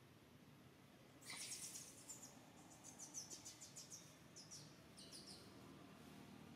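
A bird chirping: quick series of faint, high-pitched notes that start about a second in and stop about five seconds in.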